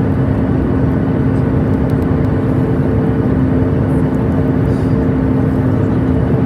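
Steady cabin noise inside a Boeing 737 MAX 8 in flight: a constant rush of airflow and engine noise with a steady low hum running through it.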